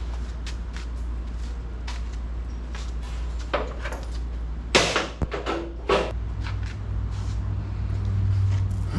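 Scattered knocks and clatter, with a louder cluster about five to six seconds in, over a steady low hum; a second low steady tone comes in about six seconds in.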